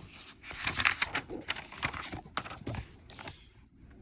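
Irregular crinkling and rustling of handled paper or plastic for about three seconds, fading to near quiet near the end.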